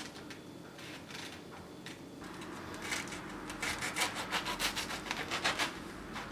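Rhythmic back-and-forth strokes, like a knife sawing against a wooden cutting board. They start soft and quicken to about five strokes a second, then stop shortly before the end.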